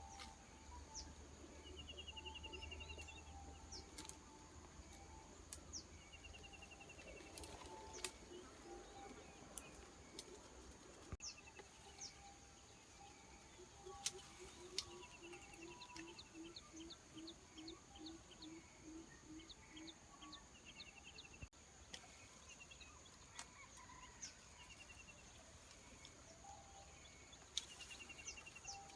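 Faint outdoor ambience of birds calling: a short, fast trill repeats every few seconds, and a run of low, evenly spaced notes about two a second comes near the middle, with occasional sharp clicks.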